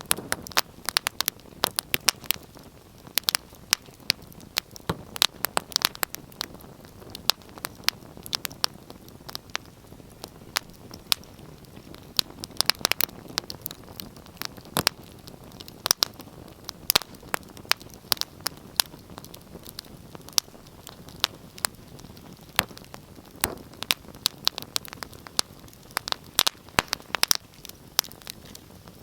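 Fire in a fireplace crackling: irregular sharp pops and snaps, sometimes several in quick succession, over a steady low hiss of the flames.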